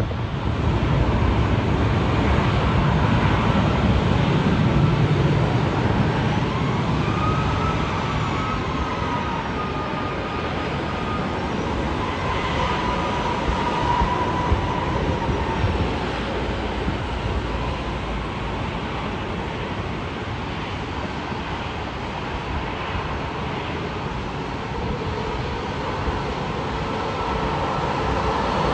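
Jet airliner engines passing: a loud, steady rush with a thin turbine whine that bends up and down in pitch as the aircraft moves past.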